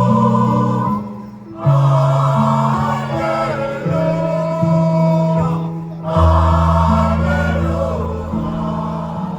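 Choir singing a slow song in long held notes, with short breaks between phrases about a second and a half in and again about six seconds in.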